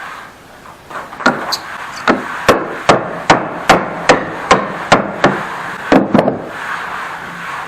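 A wood chisel being struck in a steady run of about a dozen blows, roughly two and a half a second, knocking the waste out of a dado cut in timber.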